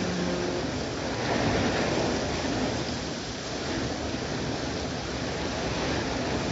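Steady rushing noise of heavy rain.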